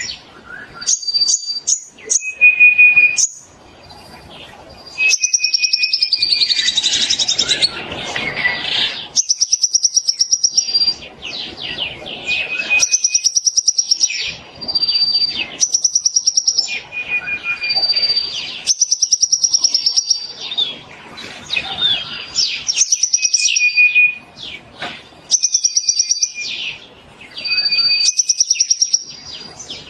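Fork-tailed sunbird singing: a high phrase repeated every two seconds or so, made of fast ticking trills and short clear whistled notes held at a few fixed pitches.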